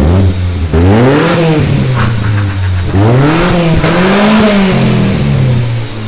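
A 1995 Mazda's 16-valve fuel-injected Ford engine revved twice from idle, the pitch climbing and dropping back each time, with the second rev held longer.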